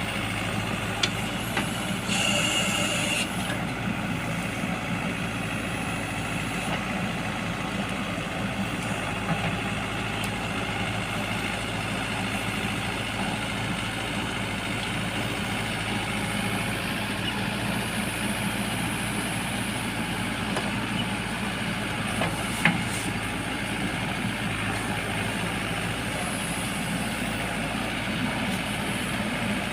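Heavy diesel engine running steadily at a work site, with a brief hiss about two seconds in and an occasional sharp knock.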